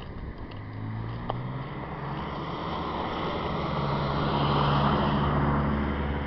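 A motor vehicle driving past: a low engine drone and tyre noise grow louder, peak about five seconds in, then begin to fade.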